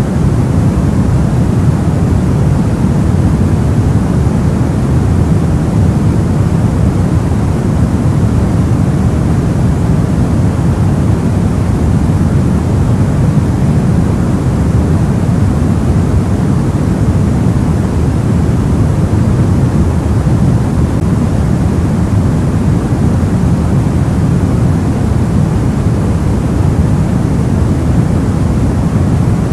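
Steady soft white noise for sleep: an even hiss with no changes, weighted toward the low end so it sounds deep and soft rather than bright.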